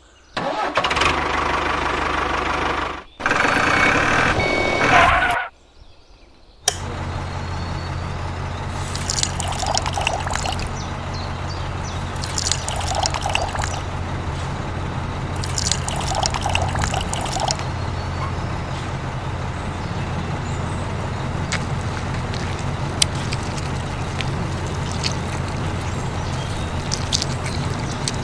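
Liquid pouring for about five seconds, then a small motor runs with a steady hum, with three brief bursts of hiss over it.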